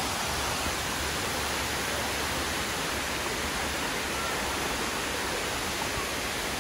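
Dunn's River Falls rushing water, a steady, even roar of falling water.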